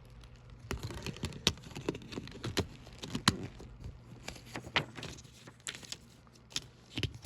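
Plastic Blu-ray case and discs being handled: irregular small clicks and taps, with the sharpest click about three seconds in.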